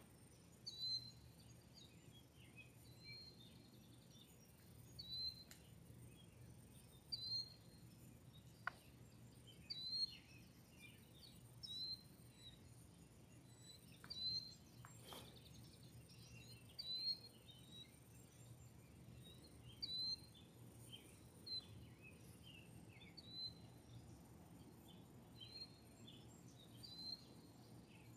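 A bird repeating one short call every two to three seconds, over a faint, steady low hum.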